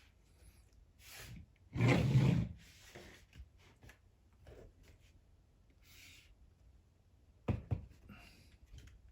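Handling noises: scattered soft rustles, a louder rustling scrape about two seconds in, and a quick pair of sharp clicks or knocks near the end.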